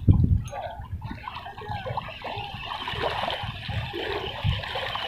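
Water splashing and trickling, with a dull low bump at the start and another about four and a half seconds in.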